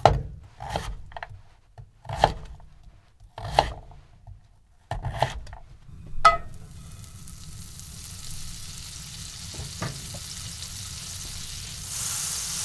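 A few short sharp strokes about every second and a half as a sweet potato is worked by hand, then a pan starts sizzling about six seconds in, growing louder near the end as butter melts and fries in it.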